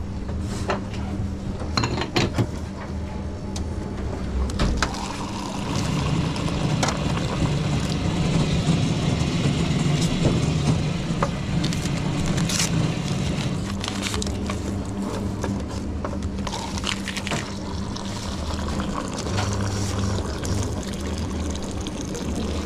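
Coffee-bar work at an espresso machine: liquid pouring and filling, over a steady machine hum and scattered clicks of crockery. There is a louder noisy stretch of about nine seconds in the middle.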